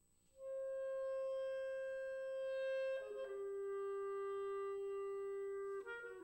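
Solo clarinet entering after a brief silence, about half a second in, and playing three long held notes, each lower than the last, linked by quick flurries of short grace notes.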